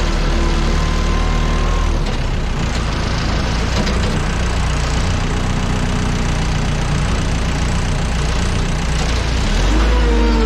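Ground-handling vehicle engine idling beside the aircraft, over a steady rushing apron noise. Near the end, higher pitched tones glide downward.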